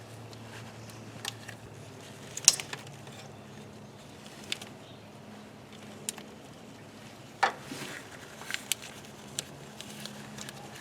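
Scattered clicks and knocks of hand tools and metal parts as the bottom bolt of a four-wheel drive actuator is worked into place, with the sharpest knocks about two and a half and seven and a half seconds in, over a low steady hum.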